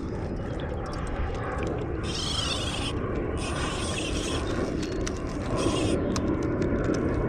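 Spinning fishing reel being cranked, its gears giving a fast ratcheting click, with a few patches of hiss, over a steady low rumble.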